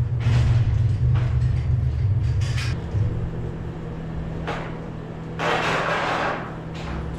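Skid-steer loader engine running, louder for the first three seconds and then steadier. A few short scraping, rustling noises sit on top of it, the longest near the end.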